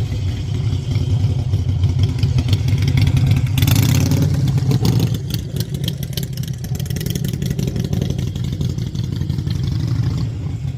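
Harley-Davidson Sportster 883's air-cooled V-twin running close up at low speed, its firing pulses giving a quick pulsing beat. About four seconds in a brief rush of hiss rises over it, and the engine eases off slightly after that.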